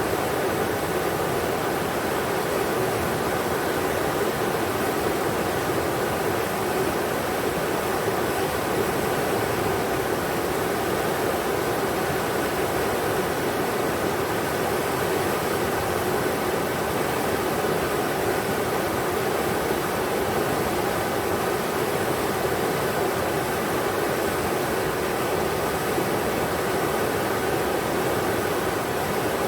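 Rushing river water: a steady, even rush of the Englishman River flowing over rocks, with no breaks or changes.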